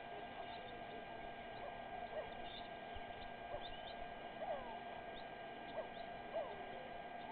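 Scattered short, gliding bird chirps and whistles, a few each second, over a steady electrical hum.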